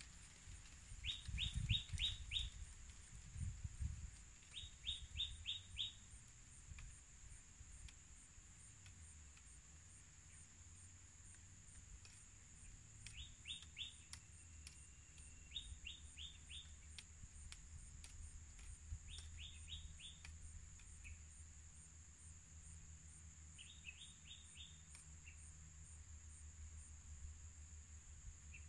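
A bird calling in short bursts of about five quick, high notes, repeated six times, over a steady high-pitched drone. Low rumbling bumps come in the first few seconds.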